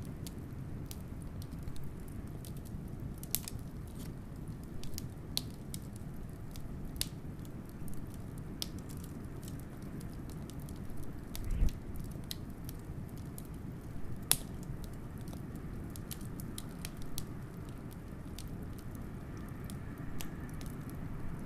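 Wood fire crackling with irregular sharp pops, over a steady low rumble of blizzard wind. One louder low thump comes just past halfway.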